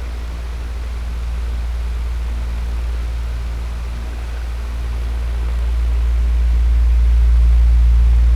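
Electric fan running steadily: a low motor hum under a whooshing rush of air, its loudness slowly swelling and easing, loudest near the end.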